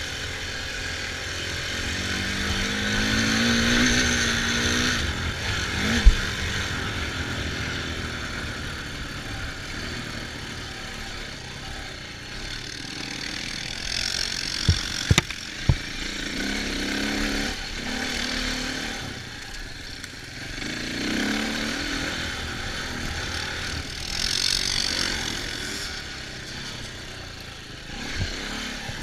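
Off-road engines of dirt bikes and four-wheelers running and revving, the pitch climbing and dropping several times. A few sharp knocks come about six seconds in and again around the middle.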